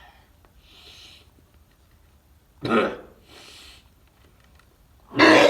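A man gagging twice, two short loud retches, with breathy exhales between them, at the stench of maggot-ridden horse bones.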